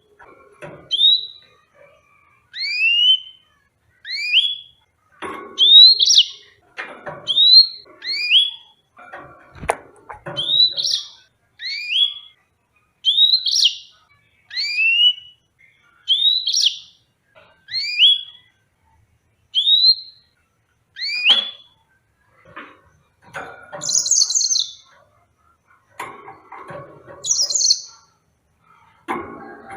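Yellow-fronted canary singing: a run of clear rising whistled notes, often in pairs, about one a second, with higher scratchy twitters near the end. A single sharp click about ten seconds in.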